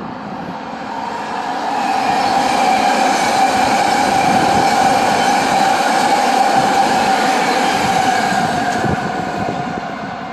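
BART train passing by, its steady whine and track rumble swelling to a peak and fading away.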